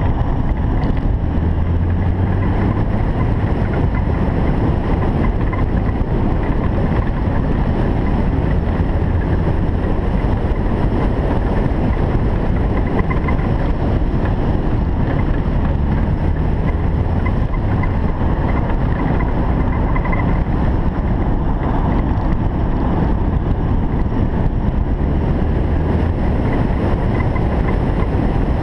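Single-turbo Toyota Supra driving at a fairly steady pace: a continuous low engine drone under road and wind noise, swelling every several seconds.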